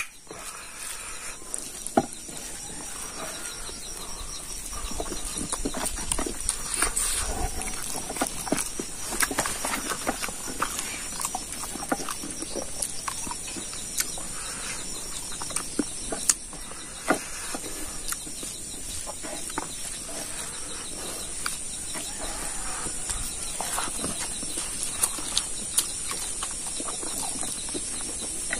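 Close-up eating noises: wet chewing and lip-smacking on pork trotter and rice eaten by hand, with many short sharp clicks. A steady high insect drone runs underneath.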